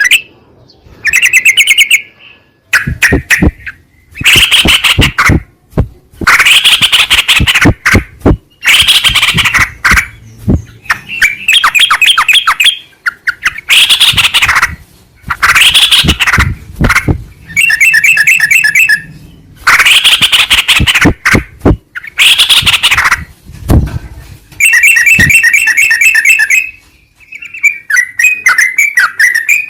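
Yellow-vented bulbul (trucukan) song: loud bubbling, chattering phrases about a second long, repeated with short gaps, with a quicker trilling phrase near the end.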